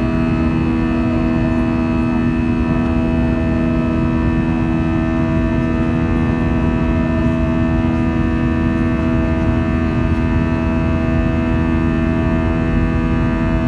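Airbus A321 jet engines running steadily, heard as a constant hum of several steady tones over a low rumble, with no rise or fall in level.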